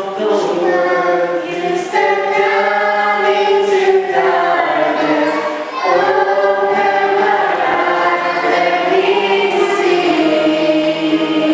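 A choir singing a hymn or gospel song in sustained, held notes.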